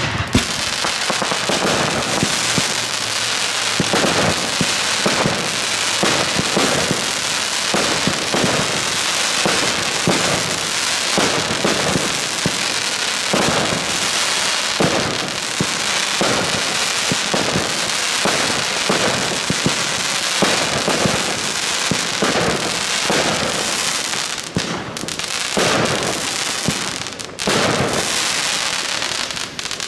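Display fireworks fired at close range: a dense, continuous run of shell bursts and crackling effects, many reports a second, easing briefly twice near the end.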